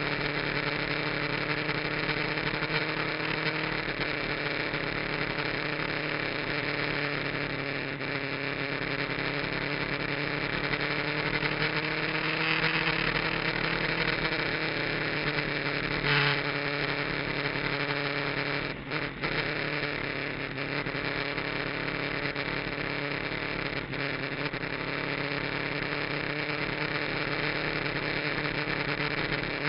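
Kawasaki GPZ900R's inline-four engine running on a fitted aftermarket muffler, its pitch drifting gently up and down, under heavy wind rush. About two-thirds of the way through the sound briefly drops out twice, as when the throttle is closed for a moment.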